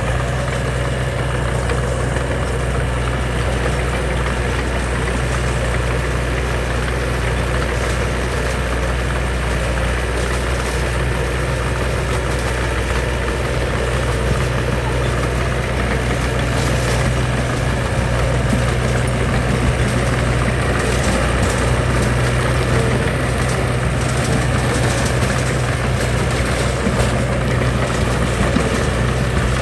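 Diesel engine of heavy earthmoving machinery running steadily with a deep, even drone.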